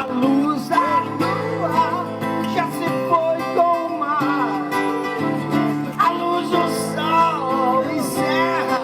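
Music: strummed acoustic guitar chords with a wavering melody line over them.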